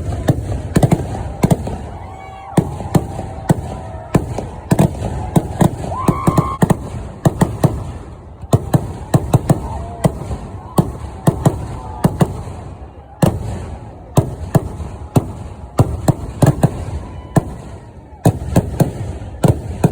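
Fireworks display: loud, sharp bangs of exploding firecrackers and shells going off in rapid succession, often several a second, with brief lulls before the barrage picks up again.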